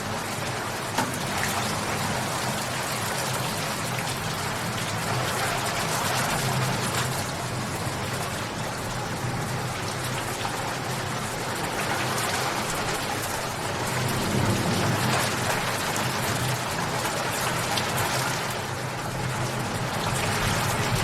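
Steady rain falling, an even hiss that swells and eases slightly, with one sharper drop-like tap about a second in.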